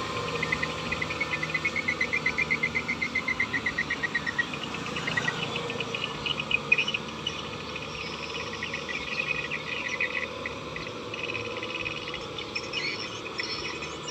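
Insects chirping: a rapid train of pulsed chirps, about five a second and falling slightly in pitch, then from about five seconds in a denser chorus of overlapping higher chirps, with a steady faint hum underneath.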